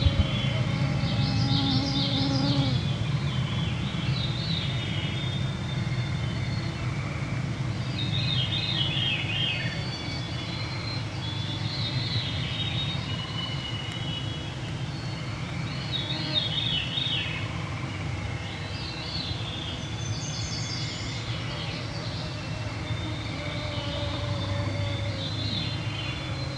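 Evening chorus of forest songbirds, a song phrase every few seconds, some of them spiralling downward in pitch. Mosquitoes whine close to the microphone over a steady low hum.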